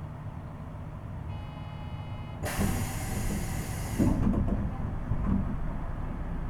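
Pneumatic sliding doors of a Seibu 8500-series train working at a station stop: a short high tone, then a sudden burst of air hiss for about a second and a half, followed by several heavy knocks as the door leaves reach their stops. Under it is the train's steady low hum.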